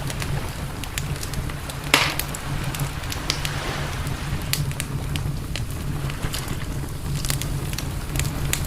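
Campfire crackling, with frequent sharp snaps and one louder pop about two seconds in, over a steady low rumble.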